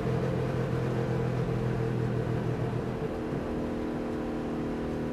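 Race car engine running at a steady speed, its note changing about three seconds in.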